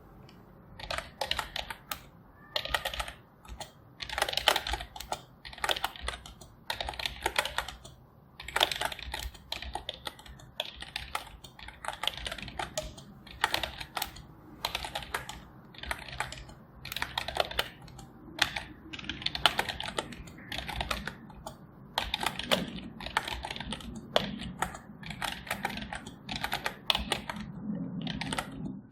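Typing on a computer keyboard: rapid strings of keystroke clicks in bursts of about a second, with short pauses between them.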